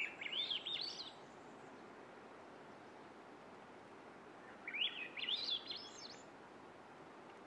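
A songbird singing two short phrases of quick rising notes, one right at the start and one about five seconds in, over a faint steady outdoor hiss.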